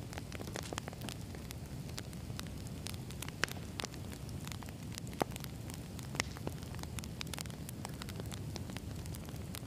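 Wood fire burning, with a steady low rumble and frequent irregular crackles and pops; a few louder pops stand out, about three and a half, five and six seconds in.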